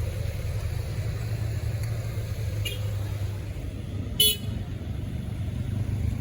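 Road traffic: vehicle engines making a steady low rumble, with a brief high-pitched horn toot about four seconds in and a fainter short one a little before it.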